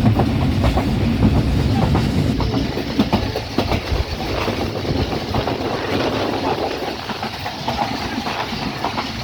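Pakistan Railways passenger train running along the track: a steady rumble with irregular clatter and rattling from the wheels and carriages.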